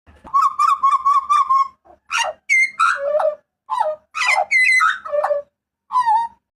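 Papuan butcherbird calling loudly. It gives a rapid rattling trill, then a series of clear, whistled shouts whose notes drop sharply in pitch, and a short call near the end.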